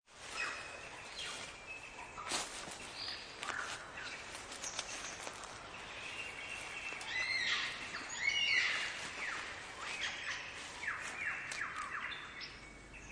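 Superb lyrebird singing a long, varied song of whistles, chirps and repeated downward-sweeping notes, the complex mimicking song it uses in display.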